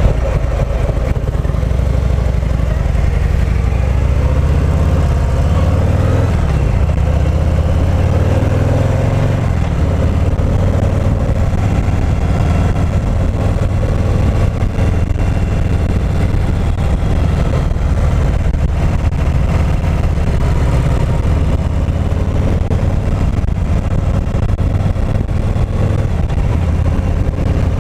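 2018 Harley-Davidson Heritage Classic's Milwaukee-Eight 114 V-twin engine running under way on a ride, a loud, steady low rumble with a shift in pitch about six seconds in.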